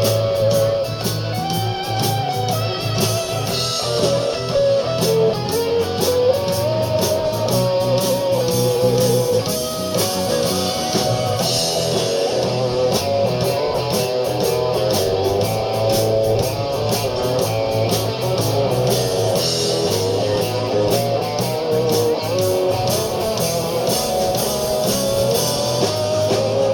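Live blues-rock band playing an instrumental break, with an electric guitar solo with bent notes over bass and drums.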